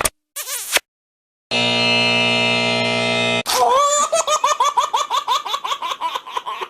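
A short click and sweep, then a steady many-toned hum for about two seconds. It cuts off into a rapid run of high-pitched laughter, like a baby's or cartoon laugh sound effect.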